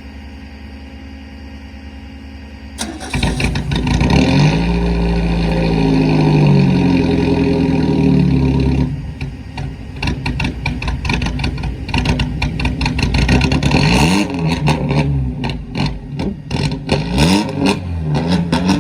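Four-cylinder race car engine idling, then revved up and down repeatedly from about three seconds in. In the second half it runs choppy and uneven, with crackles and pops between further revs.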